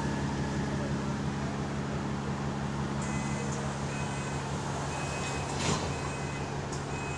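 Bus engine running steadily, a low droning hum heard from on board the bus, which has a small exhaust leak. A faint high whine comes and goes in the second half, and there is a single sharp knock about five and a half seconds in.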